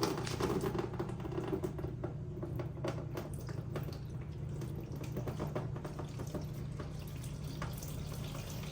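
Liquid dripping and trickling, with many small irregular clicks over a steady low hum.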